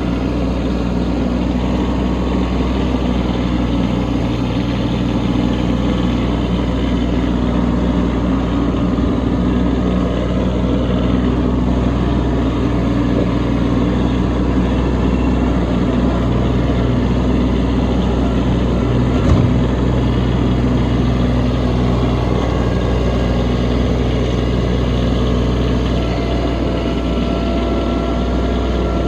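Kubota B2601 compact tractor's three-cylinder diesel engine running steadily while clearing snow, with one short knock about two-thirds of the way through.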